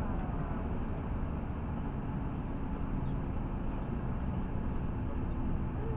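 Interior noise of a LiAZ 6213.65 articulated city bus under way: a steady low engine hum and road rumble.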